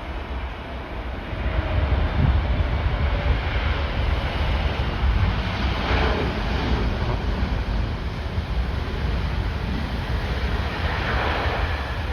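Strong wind buffeting the microphone over the rumble and roar of a jet airliner's engines on landing approach. The sound gets louder about a second and a half in and stays up.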